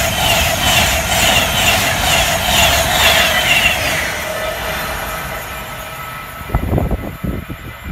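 An LNER InterCity 225 electric train with Mk4 coaches passes at speed: a loud rolling rumble with a rhythmic clatter of wheels on rail. It fades from about four seconds in as the train draws away. A few low thumps come near the end.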